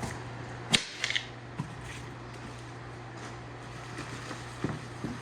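A few sharp knocks and clicks, the loudest about a second in and a quick run of three just after, over a steady low hum.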